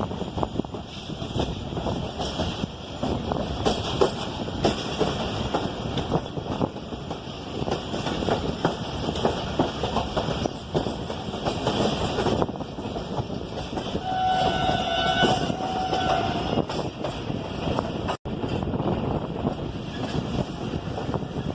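Passenger train running, the steady rumble and clatter of its wheels over the rails, with the train horn sounding once for about two seconds a little past the middle.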